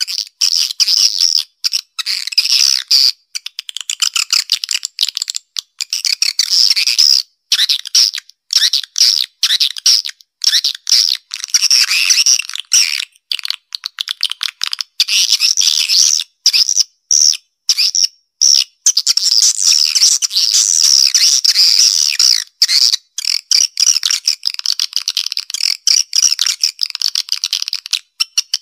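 Recorded edible-nest swiftlet twittering played as a lure call for a swiftlet house: dense, high, rapid chirping, broken by many short gaps, with nothing low in the sound.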